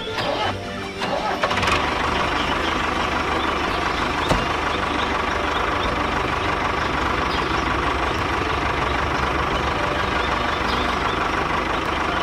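Mini tractor engine starting, then running steadily at an even pitch from about a second and a half in.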